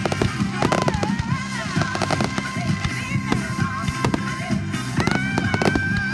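Fireworks bursting and crackling in quick, irregular bangs over loud music.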